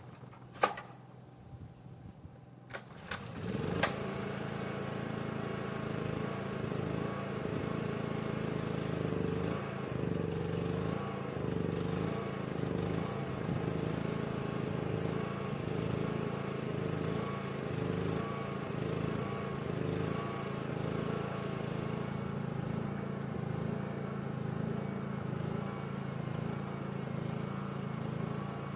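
Small portable generator engine starting: a few sharp clicks, then the engine catches about three seconds in and runs on with a slightly uneven, wavering note. The engine is cold and sputtering a little.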